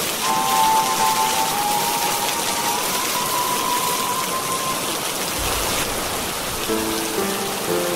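Steady rain hiss. Over it, soft sustained music notes: a high line of held tones in the first half, then lower held tones near the end.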